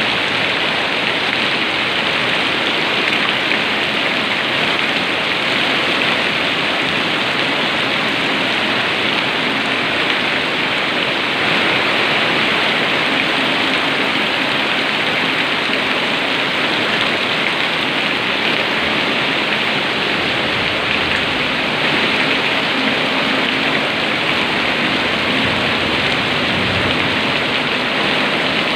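Heavy downpour: rain falling steadily and densely, a loud, even hiss.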